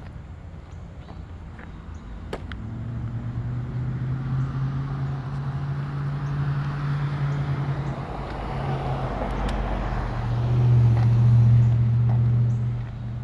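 A motor vehicle going by on a rain-wet street: a low engine hum and the hiss of its tyres. It builds from a few seconds in, is loudest near the end, then drops away.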